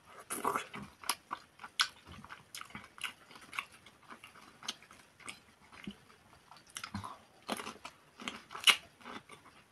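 Close-miked mouth sounds of someone eating pelmeni (meat dumplings) with sour cream: wet chewing with lip smacks and clicks at irregular intervals. Near the end comes a louder, sharper crunchy bite into a pickled cucumber.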